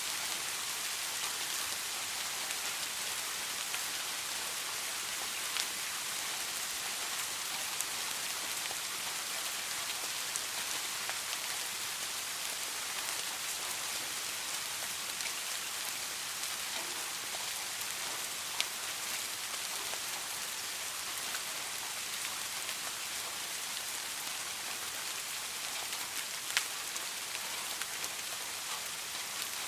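Soft, steady rain falling, an even hiss with a few louder single drops standing out now and then.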